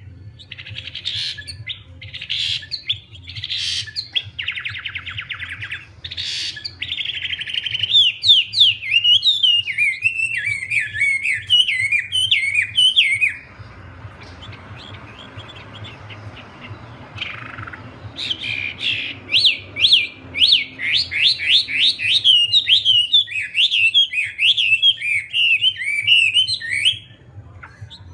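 A wambie songbird singing vigorously: a fast, chattering run of rapid up-and-down whistled notes. It breaks off for a few seconds around the middle, where a softer hiss is heard, then starts again and sings on until near the end.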